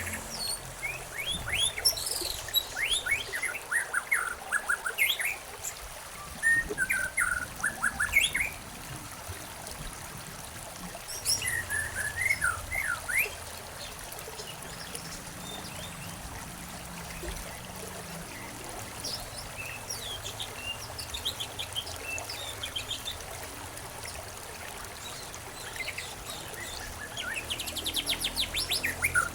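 Songbirds chirping in several short bursts of quick, sharply falling notes with pauses between them, over a steady trickle of running water.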